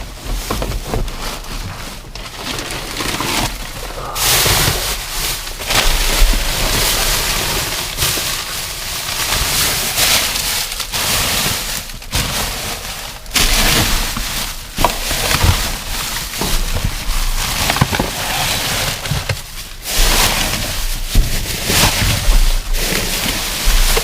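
Rummaging through a dumpster: items and trash bags being moved about, with rustling and crackling that comes and goes and scattered sharp knocks.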